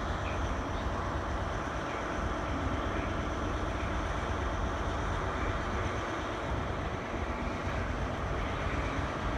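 Steady low rumble of a distant diesel multiple unit running as it approaches slowly along the station throat, mixed with general railway-yard noise.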